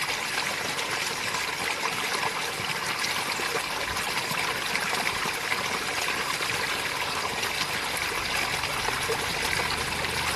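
Water from a fountain splashing and trickling steadily.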